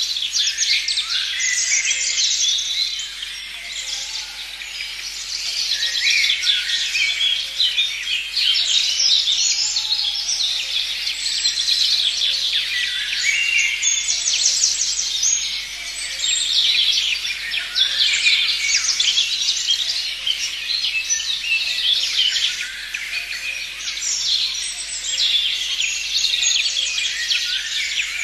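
Many songbirds chirping and trilling at once in a dense, continuous chorus of quick high-pitched notes that swells and eases every few seconds.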